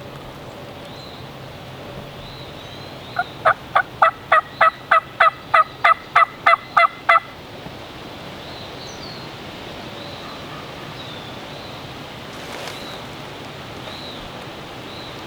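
Turkey yelping: a loud, close run of about fourteen evenly spaced notes lasting about four seconds, a few seconds in, over steady wind.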